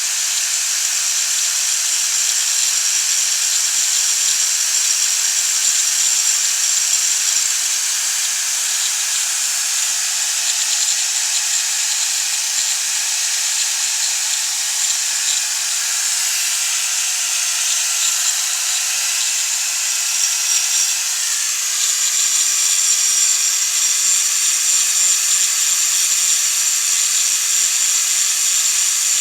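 Electric power file running continuously, grinding down the weld on a repaired, previously snapped power valve part. The sound gets a little louder and brighter about two-thirds of the way through.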